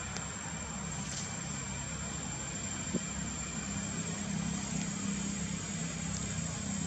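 A steady low engine hum, like an idling motor, that grows a little stronger about two-thirds of the way through, with a thin high steady tone over it.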